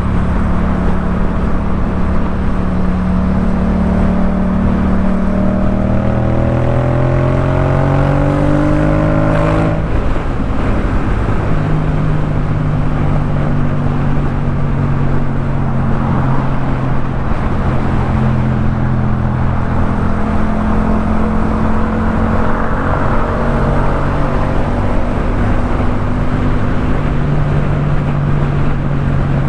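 Yamaha MT-07's parallel-twin engine running through a Jeskap K4 full aftermarket exhaust while riding. The engine note climbs for a few seconds and drops sharply at a gear change about ten seconds in, then holds a fairly steady cruising note with small rises and dips, over steady wind and road noise.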